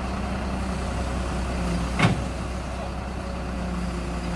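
Crane truck's engine running steadily, with a single sharp clank about halfway through.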